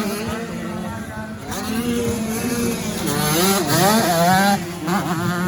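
Several 85 cc two-stroke motocross bike engines revving hard, their pitch rising and falling as the riders work the throttle.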